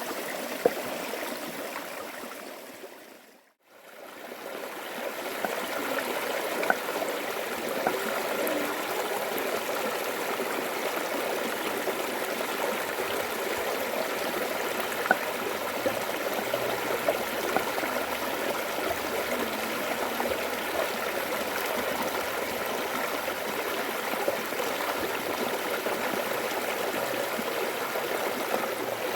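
A stream flowing steadily, with a few scattered sharp ticks over it. The sound fades out briefly and comes back about three to four seconds in.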